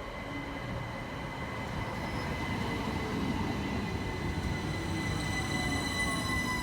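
Passing train, growing louder, with a steady high whine and tones that slide down in pitch near the end as it goes by.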